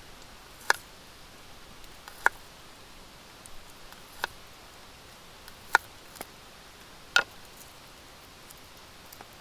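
Single raindrops falling onto a surface with sharp, irregular taps, about six in all, roughly one every second or so, over a steady hiss of rain.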